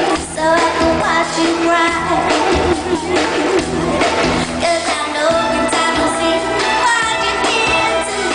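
Live pop band playing, with a singing voice and drum hits throughout.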